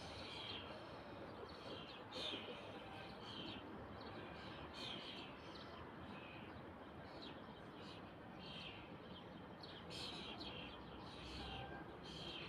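Birds chirping: short, high calls repeating every second or so over a steady hiss of background noise.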